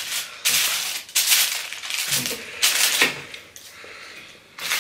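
Close-miked eating sounds of fries with cheese sauce: wet chewing and mouth noises, with the fork working the foil tray. They come in several noisy bursts through the first three seconds, then quieten.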